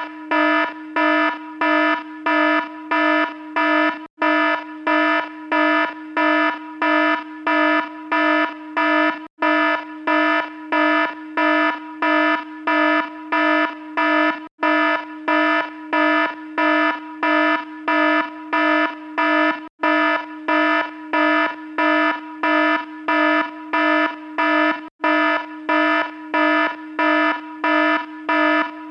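Electronic alarm beeping: a harsh, buzzy tone pulsing on and off just under twice a second, with a short gap about every five seconds.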